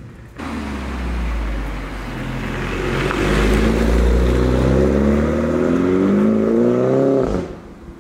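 A Mini John Cooper Works with a JCW Pro exhaust accelerating past, the turbocharged four-cylinder engine's note rising steadily in pitch as it gets louder. The sound starts abruptly just after the start and cuts off sharply about a second before the end.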